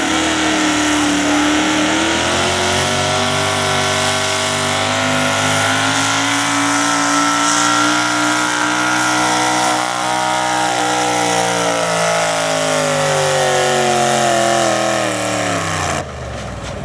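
A two-wheel-drive super stock pulling truck's engine running hard at high revs under load. Its pitch climbs slowly, then sags steadily over the last few seconds as the engine bogs down, and the sound cuts off suddenly near the end.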